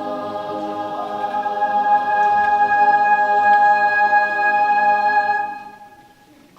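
Choir holding its final chord, swelling louder about a second in, then released about five and a half seconds in. The sound dies away into a brief hush.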